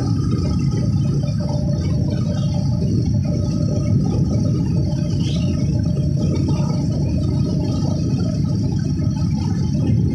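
Motorbike on the move: a steady low rumble of engine and wind noise on the microphone.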